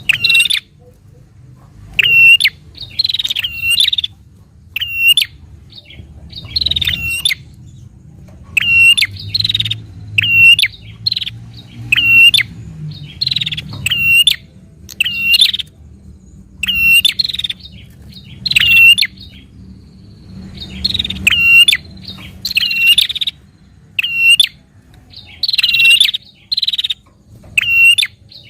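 A prinia (prenjak) calling in its excited 'fighting' mode: loud, short, sharp chattering notes, repeated roughly once a second in uneven clusters, the kind of call that keepers play to provoke their own prinias into calling.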